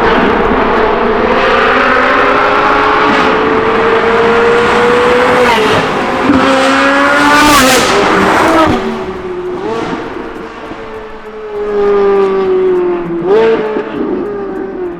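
Straight-piped Ferrari 458 Italia's 4.5-litre V8 accelerating. The engine note climbs steadily and drops sharply at each upshift, several times. It is loudest in the first half and eases off after about nine seconds.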